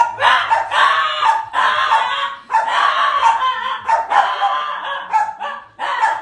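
A dog barking and yipping rapidly and loudly, in runs of about a second broken by short pauses.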